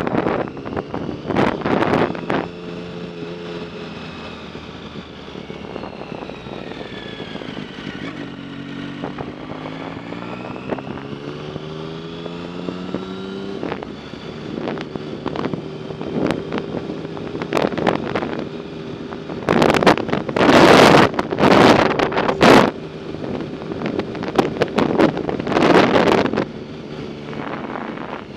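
Wind buffeting the microphone in loud gusts, over a humming tone with overtones that falls and then rises in pitch.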